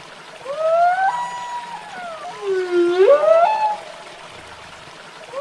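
Long gliding animal calls, two voices overlapping: each call rises, holds and falls in pitch over a second or two, with a quiet gap at the start and again near the end.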